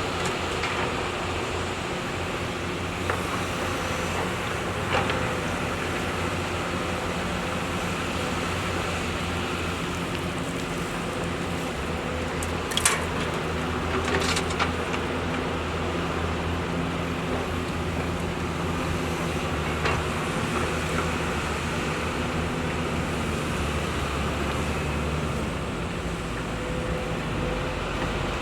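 Heavy diesel engine of an excavator running steadily under work, with a few short clanks, the loudest about halfway through.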